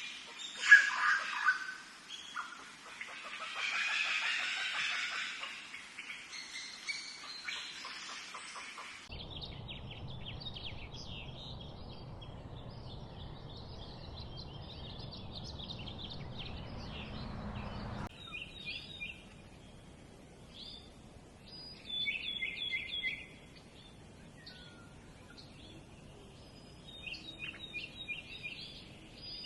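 Small birds chirping in many short, high notes, with a low rumble under them that stops suddenly partway through. A louder, rougher run of sound fills the first nine seconds or so before the chirping takes over.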